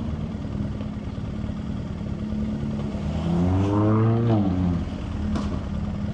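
Motorcycle engine running steadily at low speed, with the revs rising and then falling back about three to four seconds in.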